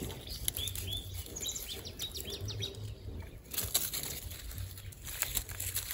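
A small bird chirping a quick run of short, high notes in the first half, over light rustling and handling clicks.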